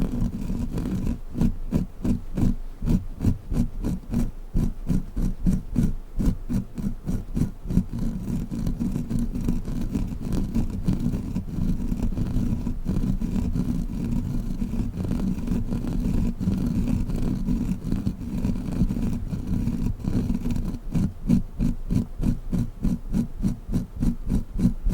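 A sticky crawler toy worked quickly close to the microphone, making fast, evenly repeated sticky taps, several a second, heavy and deep in tone.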